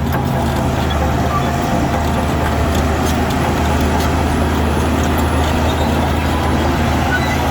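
Heavy diesel engine of earthmoving machinery running steadily with a low, even drone, with a few faint clicks.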